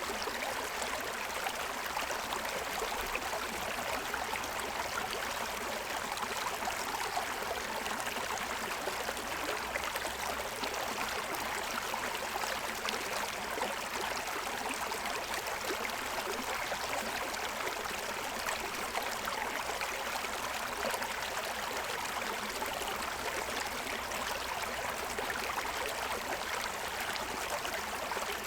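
Stream water running and splashing over the stones of a rocky streambed: a steady, even rushing.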